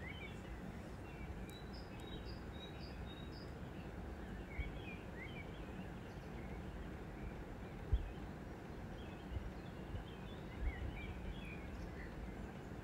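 Birds chirping on and off over a steady low background rumble, with a couple of soft low thumps.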